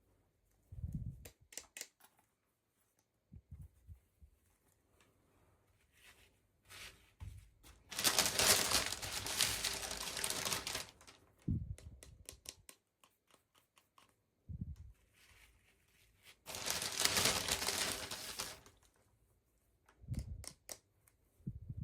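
Plastic packaging crinkling and tearing in two long stretches, with scattered clicks and light taps in between.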